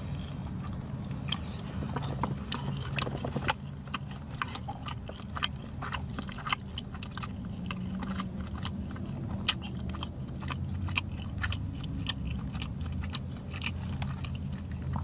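Close-up chewing of a soft roast beef and cheese slider: irregular wet mouth clicks and smacks, several a second, over a steady low hum.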